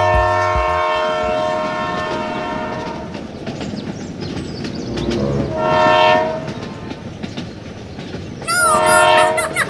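A horn sounding: one long blast that fades out over about three seconds, a shorter blast about six seconds in, and a wavering blast near the end.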